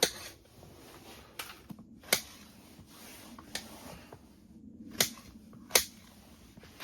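A knife chopping through vegetables onto a cutting board: about six sharp, separate cuts at an uneven pace.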